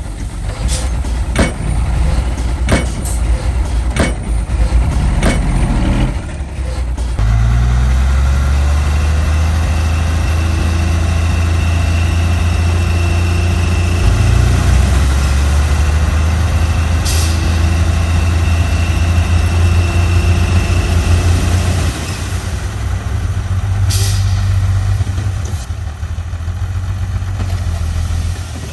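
Heavy diesel engine of a truck or earthmoving machine running and revving up twice, after a string of sharp metallic knocks in the first few seconds. Two short air hisses come later.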